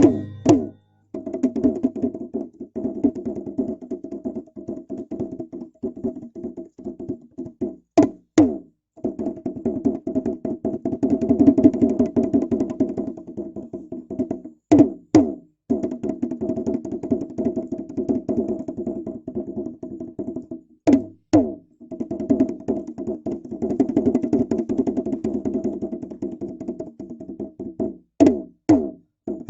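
Traditional Papuan drum music: fast, continuous drumming, broken about every seven seconds by a pair of sharp accented strikes.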